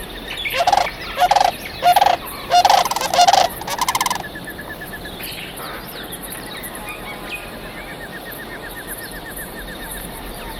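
A large bird gives a run of about six loud, harsh calls in the first four seconds. A faint, rapid trill then carries on in the quieter background.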